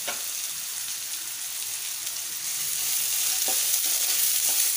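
Chopped onions, green chillies and curry leaves sizzling in hot oil in a ceramic-coated kadai, a steady hiss. About three seconds in it grows louder as a spatula starts stirring them, with a light knock against the pan.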